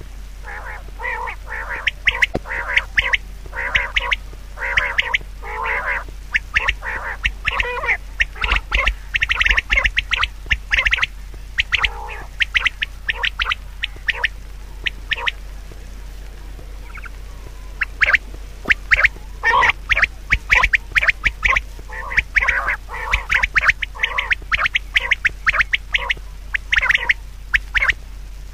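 Bird calls: a rapid run of many short, harsh calls, with a lull of a few seconds about halfway through before they start up again.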